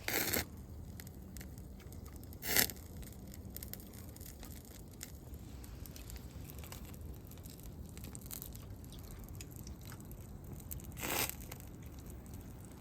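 Wood campfire crackling with scattered small pops and ticks, and two short louder rustling noises about two and a half seconds and eleven seconds in.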